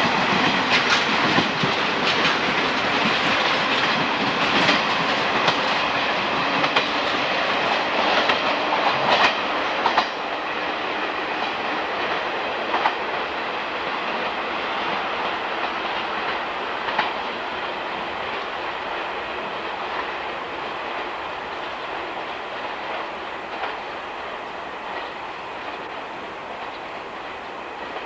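A train running through the station on jointed track, its wheels clicking over the rail joints. The clicks come in the first ten seconds, then the sound smooths out and fades as the train moves away.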